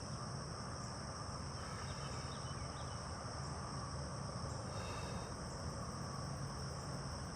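Steady high-pitched chorus of insects, crickets or similar, chirring evenly without a break, over a low steady hum.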